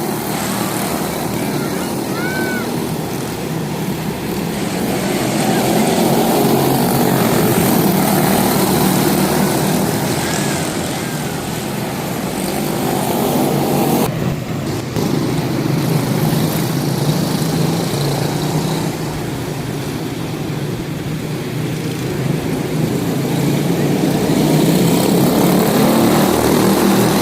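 Several quarter midget race cars with single-cylinder Briggs & Stratton Animal engines running laps together: a continuous buzzing engine drone that swells and eases as the pack comes past.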